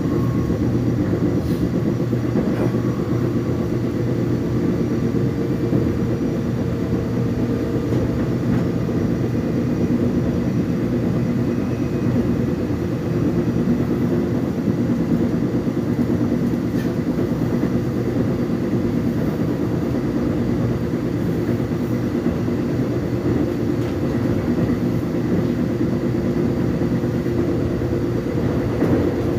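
Korean commuter subway express train running between stations, heard from inside the car: a steady rumble of wheels on the rails with a low motor hum.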